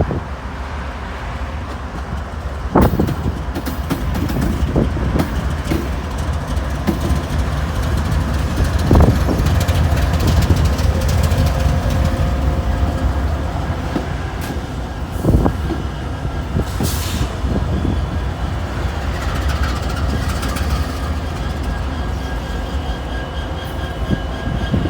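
Freight train rolling slowly by: a steady low rumble with scattered sharp knocks from the wheels and cars, and faint high steady tones coming in during the second half.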